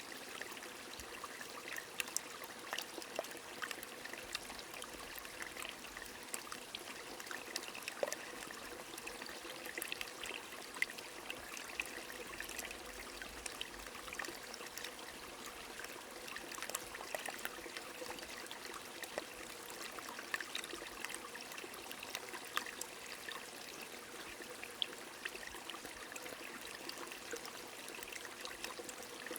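A small stream flowing and trickling steadily, with rain falling and many scattered small drips.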